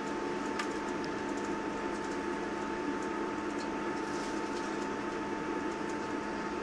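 Steady interior noise in the passenger carriage of a British Rail Class 159 diesel multiple unit: an even drone with a constant hum and a steady high tone above it, and a few faint ticks.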